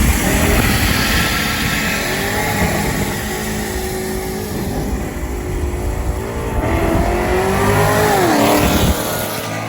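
Modified V8 cars, a twin-turbo Mustang 5.0 and a supercharged C6 Corvette Grand Sport, at full throttle in a highway roll race, engine pitch climbing in steps through the gears. About nine seconds in the pitch falls sharply as they lift off, and the sound fades.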